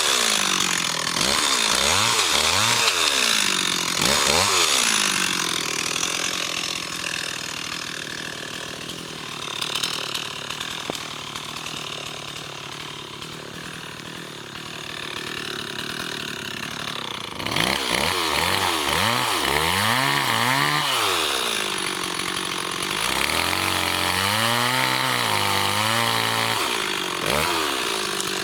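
Gas chainsaw revving up and down over and over, its engine pitch climbing and falling with each squeeze of the throttle. It runs quieter for about ten seconds in the middle, then revs hard again.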